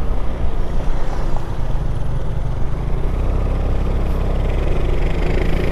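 Motorcycle engine running steadily while riding, with a wide rush of wind noise over it.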